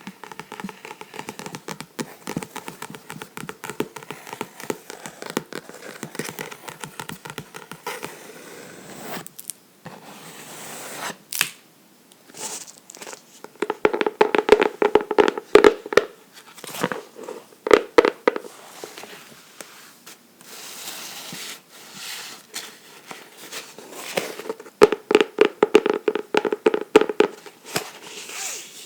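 Fingernails scratching and tapping on a book. Two bursts of rapid tapping come about halfway through and near the end, and a couple of papery swishes fall between them.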